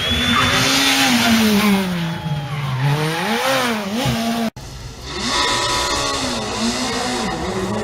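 Rally car engine on a stage: the engine note drops as the car slows, then climbs and dips with quick revs and gear changes. About four and a half seconds in, a sudden cut brings in another rally car, its engine revving up and down.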